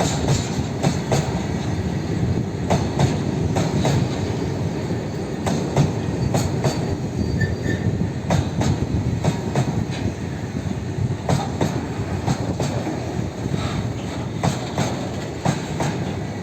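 A train running past on the track: a steady rumble of the wagons, with the wheels clicking sharply and irregularly over the rail joints.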